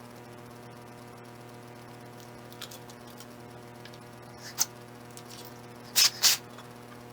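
Steady electrical hum with a few short crackling clicks. The two loudest come close together about six seconds in.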